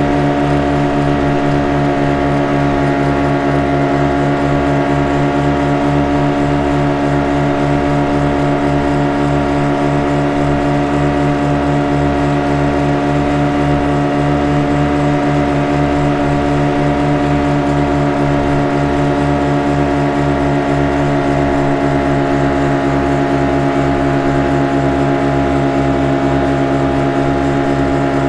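Speed boat engine running at a steady speed: an even, unchanging drone with a fast regular throb underneath.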